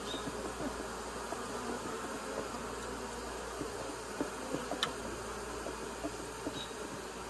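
A swarm of honeybees buzzing as many bees fly close around, a dense steady hum, with a single sharp click about five seconds in.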